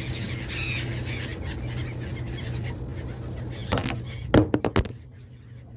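Seagulls squawking and squealing over a steady low hum. Near the end come a few loud, sharp knocks in quick succession.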